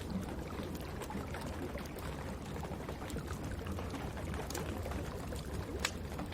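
Wood fire crackling in a fireplace, with scattered sharp pops over a steady hiss of rain. One pop right at the start and one about six seconds in stand out as the loudest.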